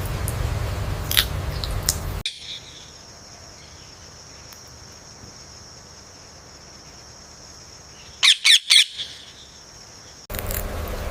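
Green parrot calling: a couple of short sharp chirps early, then, after a cut to a quieter clip, three loud squawks in quick succession.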